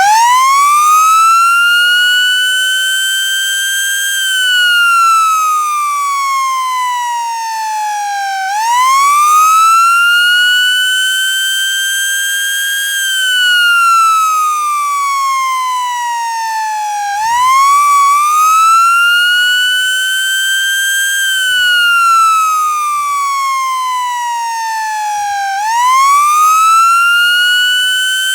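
FS 28H siren running a slow wail: its tone climbs quickly as it starts, then rises and falls over and over, about eight to nine seconds per cycle.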